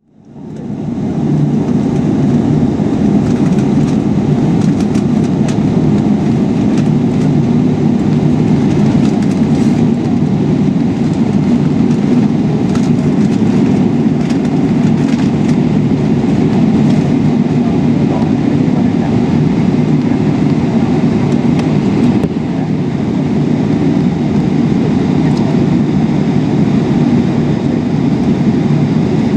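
Steady low cabin rumble inside a Boeing 777 moving along the ground, its engines and wheels running, with faint light rattles between about 4 and 17 seconds in.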